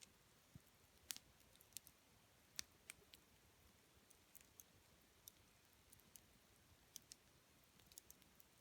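Wood fire crackling: irregular sharp pops and snaps of burning wood, a few a second, over a faint hiss.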